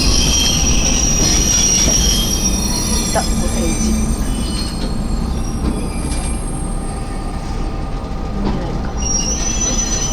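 Kanto Railway KiHa 101 diesel railcar rolling slowly, heard from aboard: a steady low rumble with high-pitched metal squeals from the running gear in the first couple of seconds and again near the end.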